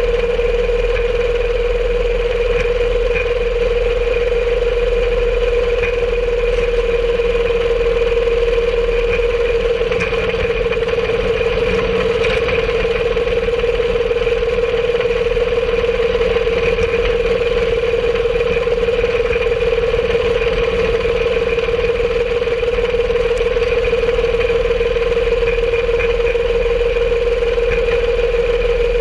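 Home-made rail cart's small engine running at a steady speed, a constant drone, with the wheels rolling and faintly clicking over the rails.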